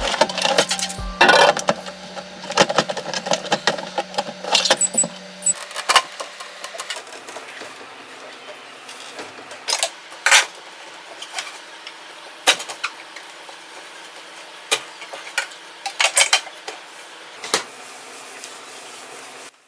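Scattered clicks, knocks and clatters of objects being handled, over a steady low hum that shifts to a slightly higher pitch about five seconds in.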